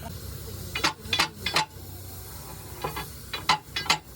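Metal striking metal: a run of about seven sharp, ringing clinks in small groups, like tools or steel parts knocked together in a workshop, over a steady low hum.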